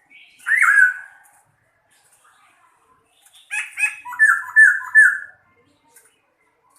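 A songbird singing: one short phrase about half a second in, then a run of several quick repeated notes from about three and a half to five seconds in.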